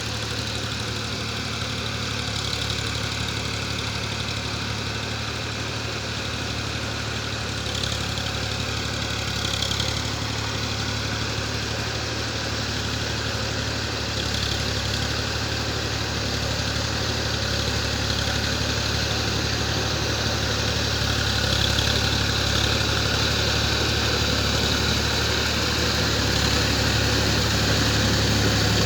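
Swaraj 735 FE tractor's three-cylinder diesel engine running steadily, growing a little louder toward the end.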